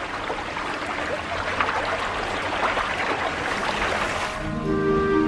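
Running river water, a dense steady rush with brief splashy spikes. Soft music with held notes comes in about four and a half seconds in.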